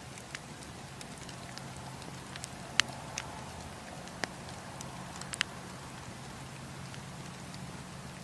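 Wood campfire crackling: a steady low hiss and rumble with scattered sharp pops and snaps from the burning wood, the loudest a little under three seconds in.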